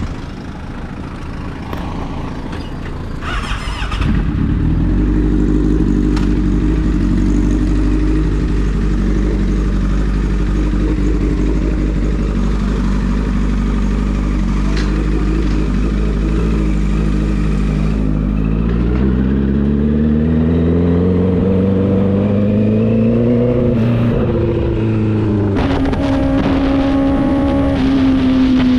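Motorcycle engine running under way. It becomes louder about four seconds in, its pitch climbs steadily for several seconds as it speeds up, then it settles to a steady note near the end.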